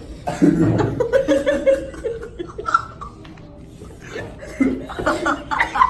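Several people laughing and chuckling, in broken bursts.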